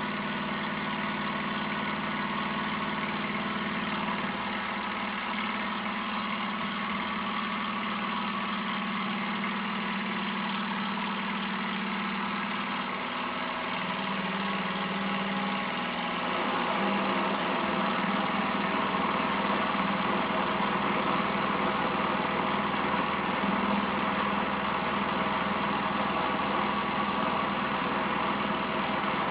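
A small machine running steadily with an even hum; its pitch shifts about halfway through and it gets a little louder soon after.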